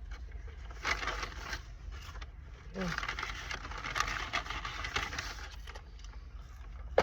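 Crackling, crinkling noise of fast-food packaging being handled. There is a short burst about a second in, then a longer stretch of about three seconds, over a steady low rumble.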